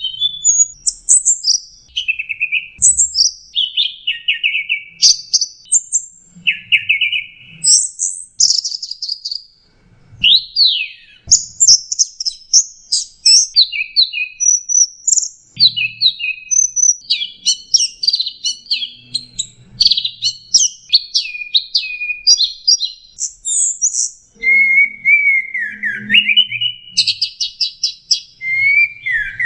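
Long-tailed shrike (cendet) singing a rapid, varied song of short chirps, trills and whistled notes, with a brief pause about ten seconds in.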